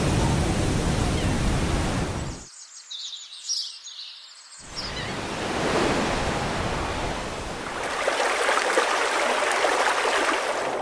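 Sea surf washing in a steady rush of noise. It cuts away abruptly for about two seconds to a much quieter stretch with short high chirps, then the surf returns.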